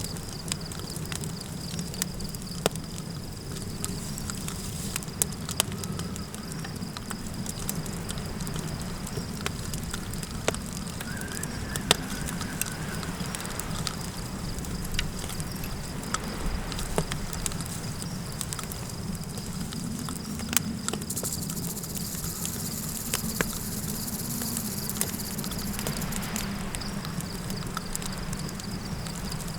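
Campfire crackling with scattered sharp pops, over a steady low wind rumble and a continuous high cricket trill. Past the middle, a rush of high hiss swells for several seconds and then fades.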